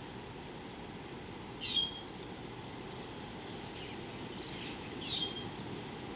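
A bird's short, sharp call, heard clearly twice, about two seconds in and again about five seconds in, with fainter calls between, over a steady low background rumble.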